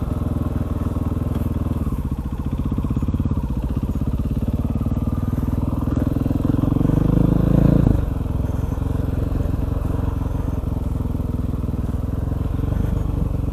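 KTM 500 EXC supermoto's single-cylinder four-stroke engine running as the bike sets off. It builds louder under throttle from about six seconds in, then drops off suddenly near the eight-second mark.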